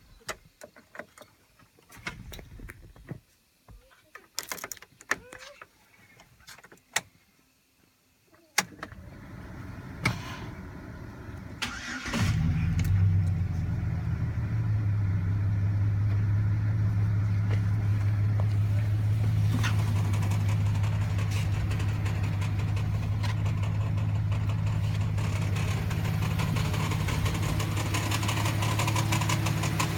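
A few clicks and knocks, then the starter cranks briefly and the 2005 Chevrolet Silverado 1500's 4.3-litre V6 catches about twelve seconds in and settles into a steady idle.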